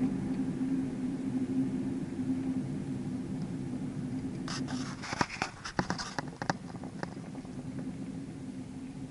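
A motor vehicle engine running steadily and slowly fading, with a burst of sharp clicks and cracks about five seconds in.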